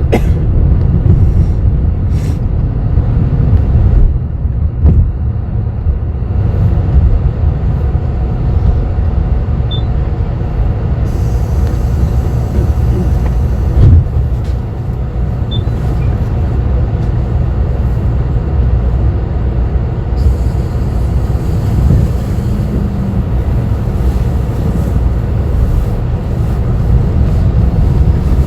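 Cabin noise inside a bus: a steady low rumble of engine and road, with small rattles and knocks throughout and one louder jolt about halfway through.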